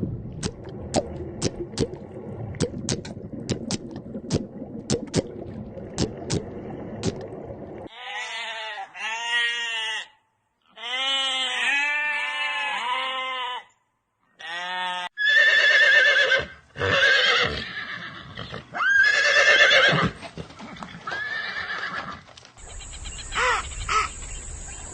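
A run of animal calls from several different animals, one after another. The first stretch holds a series of sharp clicks. Quavering, repeated calls follow, then louder calls, and a steady high tone comes in near the end.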